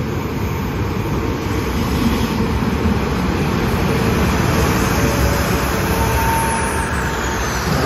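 Diesel multiple-unit express train pulling into a station platform and rolling past close by, its engines and wheels on the rails making a steady rumble that slowly grows louder.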